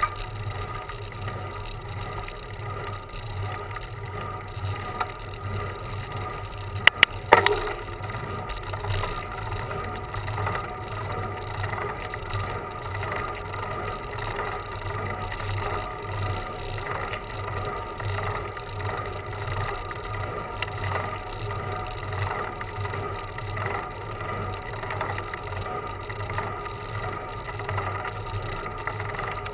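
Bicycle in motion on a road: steady rolling noise, with two or three sharp clacks close together about seven seconds in.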